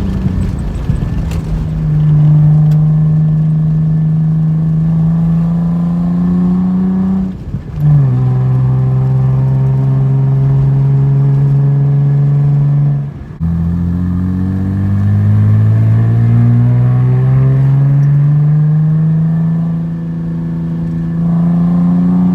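Straight-piped Nissan 300ZX's 3.0-litre V6 exhaust under acceleration, the note climbing steadily in pitch through each gear. Two upshifts, about a third and about two-thirds of the way through, each a brief drop in sound before the note picks up again lower.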